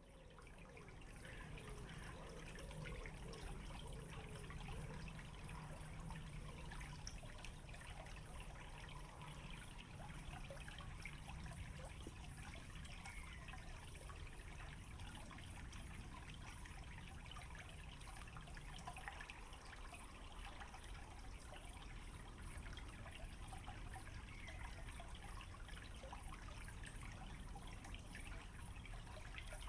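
Shallow stream running over a small ford: a steady, quiet trickle and babble of water.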